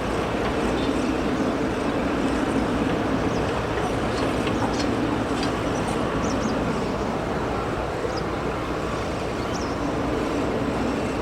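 Steady rumble of jet airliner engines that neither swells nor fades, with a few faint short high chirps over it.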